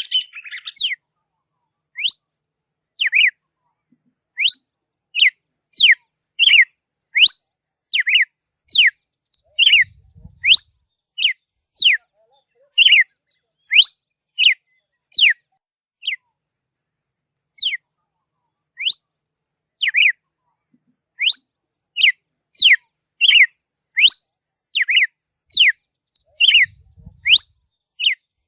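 A songbird repeating short whistled notes, each a quick downward slur from high to lower pitch, about one every 0.7 seconds, with a pause of a few seconds midway. It follows a brief burst of busy chirping that ends within the first second.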